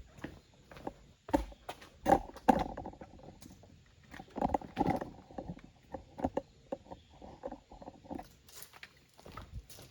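A string of irregular knocks and scuffs, like footsteps and handling, loudest around two and five seconds in.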